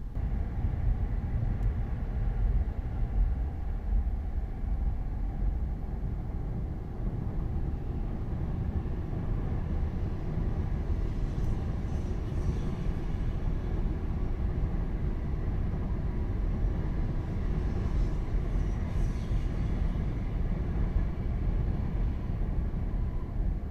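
Tokaido Shinkansen train running, a steady low rumble with rail noise that starts and stops abruptly.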